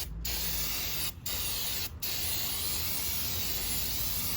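Aerosol cleaner spraying in long hissing blasts, with two brief let-offs in the first two seconds, washing the factory rust-preventive oil off a new clutch so it doesn't contaminate the friction surfaces.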